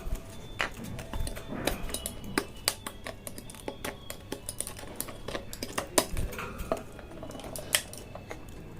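Irregular sharp clicks and light clatters of small hard objects being handled, coming several times a second at the busiest points.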